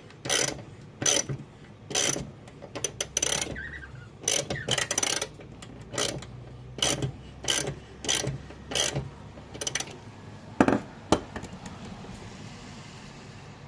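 Ratchet wrench clicking through repeated strokes, tightening the forcing screw of a two-jaw gear puller, with two louder knocks near the end before it stops.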